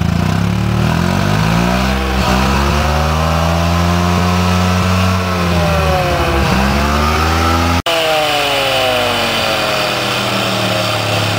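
1981 Mazda RX-7 GSL's 12A twin-rotor rotary engine revving through its twin-tip exhaust: the revs climb over a couple of seconds, hold high for a few seconds, drop briefly and climb again. After an abrupt break about eight seconds in, the engine comes down from a high rev and settles back to idle.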